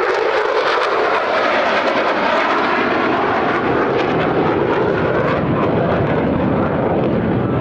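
U.S. Air Force F-16 fighter's single jet engine roaring loudly and crackling as it passes low over the field. The sound's weight shifts toward a deeper rumble after the first second.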